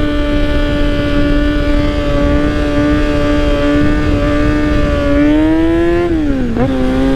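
Kawasaki Z900 inline-four with a baffle-less aftermarket muffler, held at steady high revs for about five seconds. It then climbs a little and drops sharply near the end, like a gear change or throttle roll-off, before settling at a lower steady pitch.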